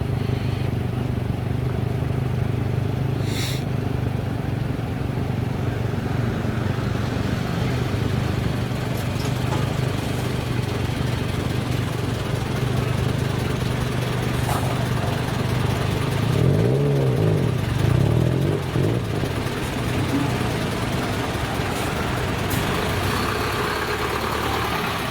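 Sports car engine idling steadily, revved briefly twice about two-thirds of the way through, the pitch rising and falling back each time.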